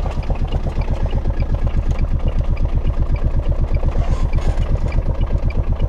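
Small engine of an Aixam A721 microcar idling steadily, with an even, rapid chug and a light clatter.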